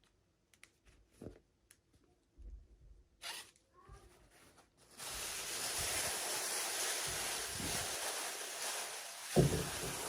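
Toy packaging handled by hand: a few light clicks and taps, then from about halfway a continuous tearing, rustling noise as the wrapping is torn open, with one louder knock near the end.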